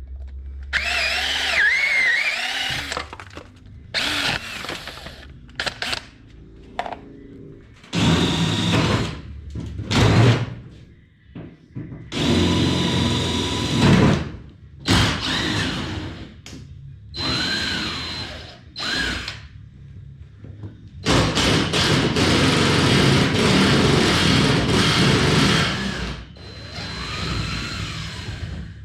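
Cordless drill running in repeated short bursts, its motor speeding up and slowing down, with one longer run near the end.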